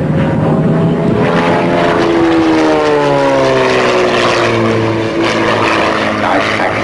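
Extra 300 aerobatic monoplane's 300 hp piston engine and propeller droning as it flies past, the pitch sliding steadily down over a few seconds.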